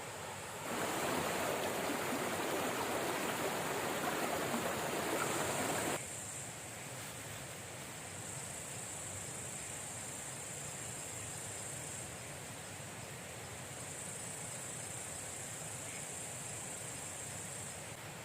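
River water rushing steadily over its bed. The rush is louder from about a second in, then drops suddenly to a softer, even flow about six seconds in.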